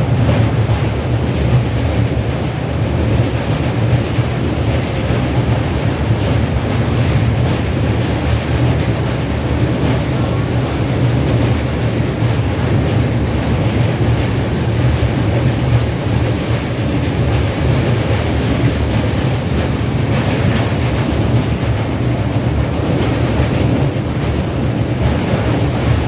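Moving passenger train: a loud, steady, deep rumble of the coach running along the track.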